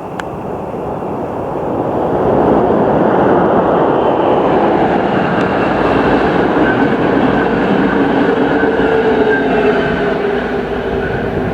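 Train running through the station, its rumbling rush building over the first couple of seconds and then holding loud. A steady whine comes in about halfway through.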